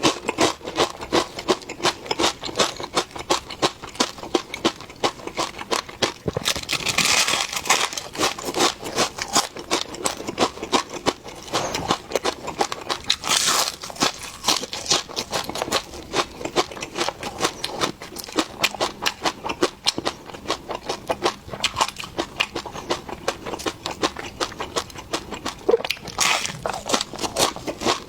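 Close-miked chewing and crunching of crisp, crunchy fried food, a dense run of sharp crunches several times a second, with a few louder bites.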